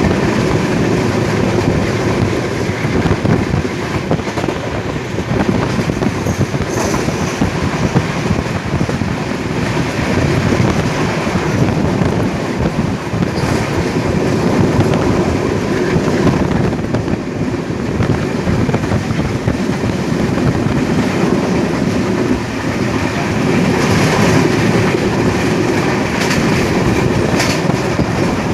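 Passenger train running along the track, heard from on board: a steady loud rumble of the coaches, with wheels clicking over rail joints. A brief high-pitched squeal or hiss comes in a few times.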